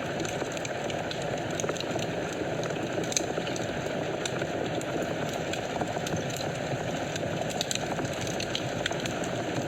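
Wood fire burning in a fireplace: a steady low roar of flames with frequent small, sharp crackles and pops scattered throughout.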